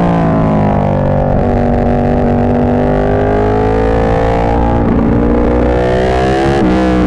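Ducati 1299 Panigale's L-twin engine through an Austin Racing GP2 full exhaust, loud and overloading the exposed microphone. The engine note drops in pitch in the first second, then holds and creeps up slowly, climbs sharply near the end and falls quickly again as the revs change.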